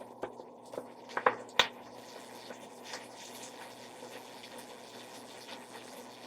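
Whole chicken sizzling quietly in hot oil in a pot as it browns, with a few short clicks of a utensil against the pot about a second and a half in.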